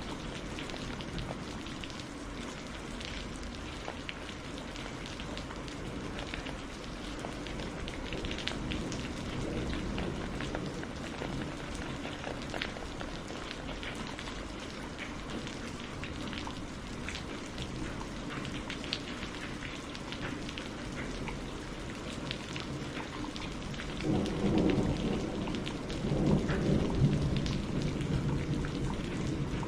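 Steady rain falling, with scattered individual drops ticking. About 24 seconds in, a low rumble of thunder comes in and swells again near the end, the loudest part.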